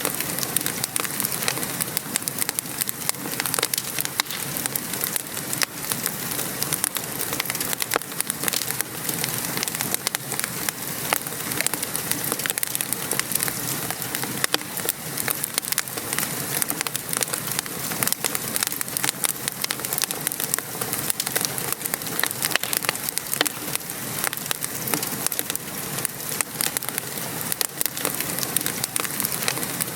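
Steady patter of rain mixed with the crackling and popping of a wood fire in a fireplace, many small sharp pops over an even hiss.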